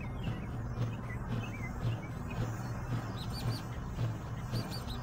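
Small birds chirping in short, scattered chirps, more of them in the second half, over a steady low hum.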